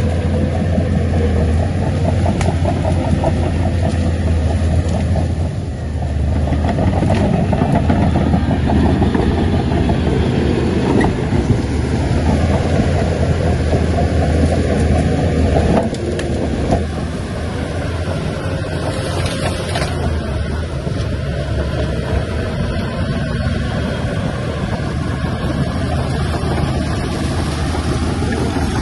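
Heavy diesel engine of an earthmoving machine running steadily with a deep hum, easing off a little about halfway through.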